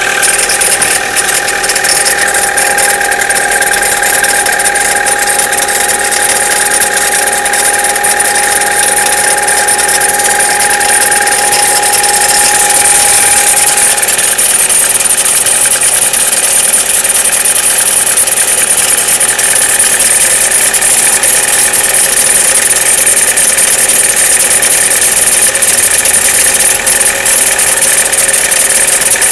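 Chevrolet Cruze engine idling after a cold start, with a steady ringing whine that stops about halfway through while the engine keeps running. This is the cold-engine ringing that goes away after about a minute of running and is absent at 0 °C and above.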